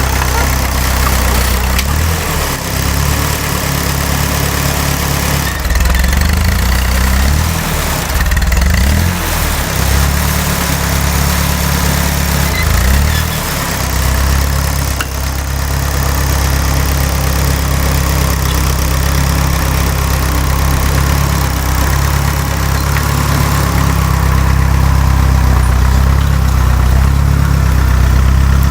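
Engine of a restored Fiat 352C tractor running steadily, its pitch and loudness shifting several times in the first half as the load or throttle changes, then holding even.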